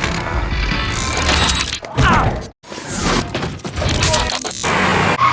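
Edited action sound effects: a busy run of cracks and clanks with sweeping whooshes, broken by a brief cut to silence about two and a half seconds in.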